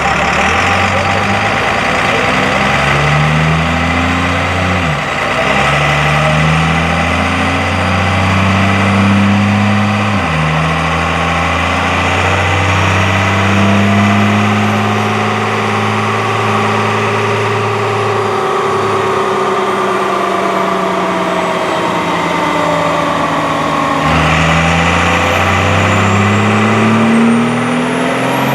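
Motor vehicle engine accelerating, its pitch climbing and then dropping sharply about 5, 10 and 24 seconds in as it changes gear, with a long steady stretch in the middle.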